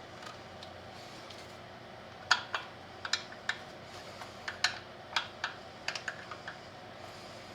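A quick irregular run of light, sharp clicks and taps, like small hardware being handled and set down during assembly. The clicks start about two seconds in and stop about a second before the end, over a faint steady background hum.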